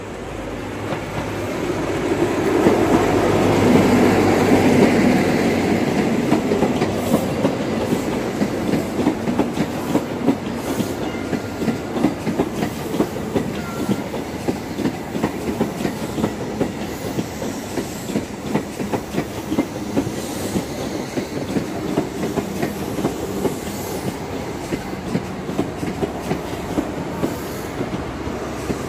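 InterCity 125 high-speed train passing close by. The leading Class 43 diesel power car is loudest a few seconds in, then the Mk3 coaches roll past with a steady clickety-clack of wheels over the rail joints.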